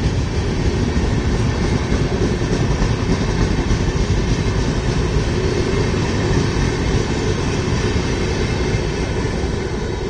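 LHB passenger coaches running past at speed, a steady rumble of wheels on the rails; the sound begins to fade near the end as the last coach goes by.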